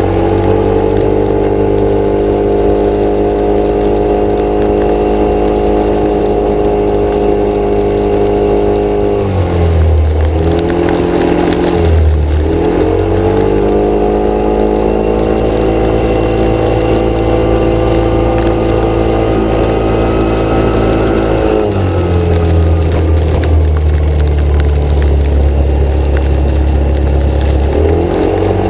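An engine running steadily and loudly. It drops to a lower speed briefly twice, about ten and twelve seconds in, then again for several seconds near the end, picking back up each time.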